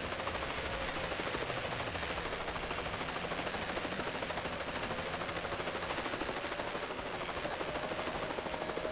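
A rapid, steady rattle of many pulses a second, like machine-gun fire, with a faint wavering tone underneath.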